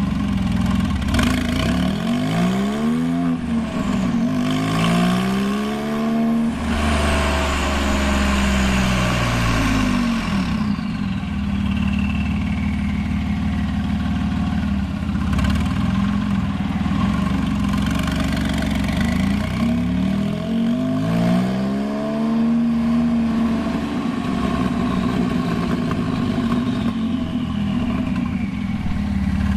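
Straight-piped 2001 Porsche 996 911 Turbo's twin-turbo flat-six running, its revs rising and falling in a few quick swells a few seconds in and again about twenty seconds in, with steadier stretches between. A high whistle falls slowly in pitch after the first swells.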